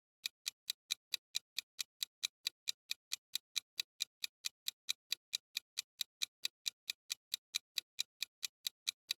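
Quiz countdown-timer ticking sound effect: a steady clock-like tick, about four to five sharp ticks a second, evenly spaced and unchanging.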